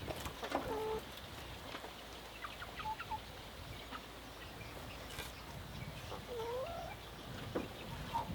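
Chickens clucking: a few short, separate calls, some sliding in pitch, with light clicks and taps in between.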